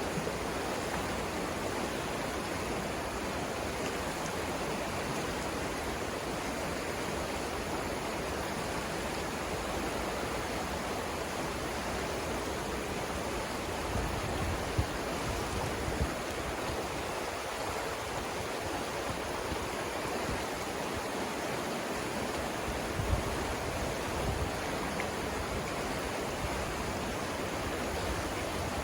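River rapids rushing steadily, an even wash of flowing water, with a few brief low thumps.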